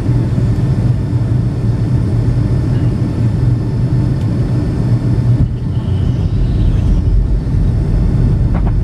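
Steady low rumble of a Boeing 757-200's engines and airflow, heard inside the passenger cabin on the approach to landing. A brief faint high whine comes in about six seconds in.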